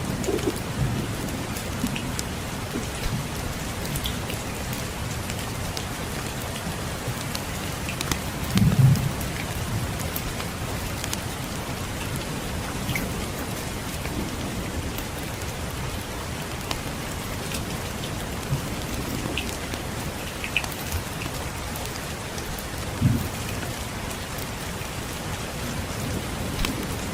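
Steady rain falling, with scattered small crackles of a wood fire over it. There are two short low rumbles, about nine seconds in and again near the end, and these are the loudest moments.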